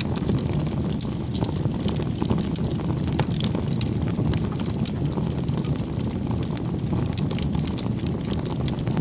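Wood fire crackling: a steady low rumble of burning with frequent small, sharp pops and crackles.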